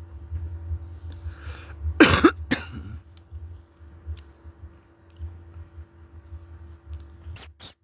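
A person coughs or clears their throat twice, about two seconds in, over a steady low hum. Near the end a quick run of short, sharp sounds begins, about five a second.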